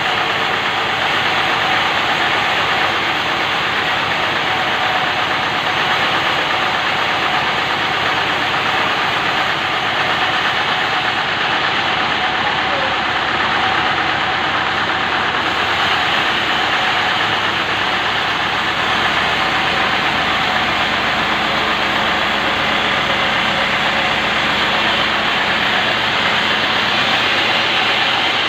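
Band sawmill running, a loud, steady mechanical noise that holds evenly throughout.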